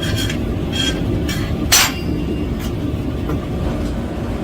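Hammer blows on metal at the anvil: about six irregular, ringing strikes, the loudest a little under two seconds in, over a steady low rumble.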